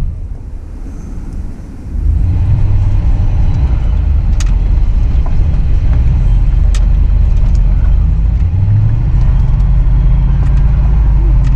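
A truck engine running under load while driving in snow, a steady low drone. It is quieter for the first two seconds, then picks up and holds loud. A couple of faint sharp clicks come through partway in.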